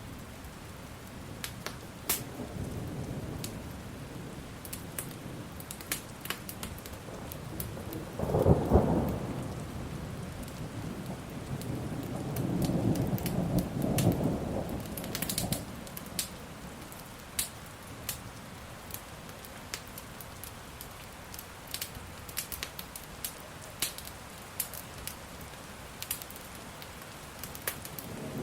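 Steady rain with thunder: a loud clap about eight seconds in and a longer rolling rumble a few seconds later. A wood fire crackles throughout with sharp pops.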